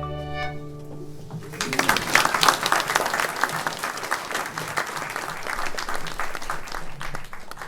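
The last notes of an acoustic string ensemble die away, then an audience applauds for about six seconds.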